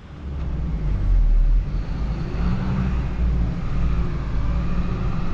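Truck driving, with a steady low engine and road rumble that comes in suddenly and is loudest about a second in.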